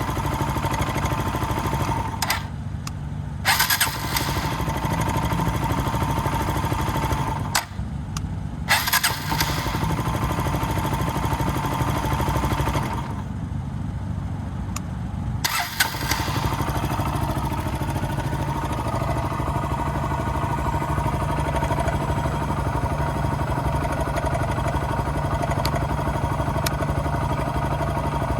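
Kawasaki KLX125's single-cylinder four-stroke engine being shut off and restarted about three times in the first half, then idling steadily. It is being checked for a 'kachan' clack that sometimes sounds as the engine stops.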